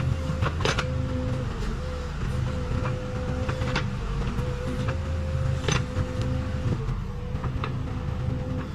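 Case 580 Super K backhoe loader's diesel engine running steadily under work, with a constant whine over the rumble and a few sharp metallic clanks from the machine.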